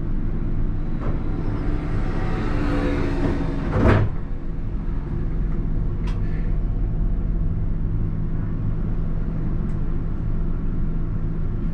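Alstom Citadis tram running, heard from the driver's cab: a steady low hum from its drive, with a swell of noise that ends in a sharp knock about four seconds in and a few faint clicks after it.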